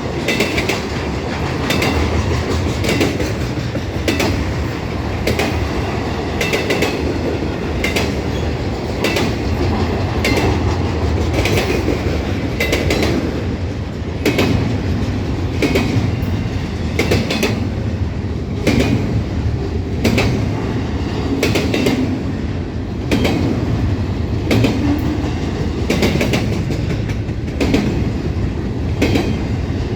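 Railroad cars of a long train rolling past: a steady low rumble with a regular clickety-clack of wheels striking the rail joints, about one click a second.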